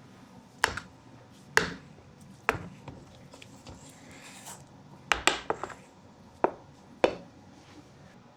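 Sharp knocks and clicks of baking utensils and dishes being handled on a work surface, spaced out at first, with several in quick succession a little after five seconds in.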